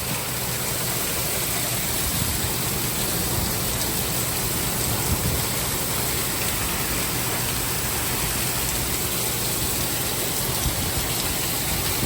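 Heavy thunderstorm rain pouring down, a loud, even rush with a few faint ticks in it.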